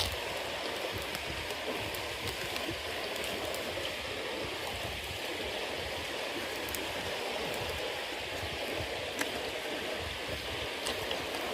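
Bonfire of wet cedar leaves and damp firewood burning: a steady hiss with scattered sharp crackles and pops.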